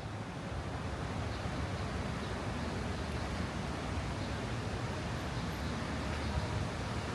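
Steady outdoor street ambience: an even rushing noise with a low rumble underneath, rising slightly in the first second.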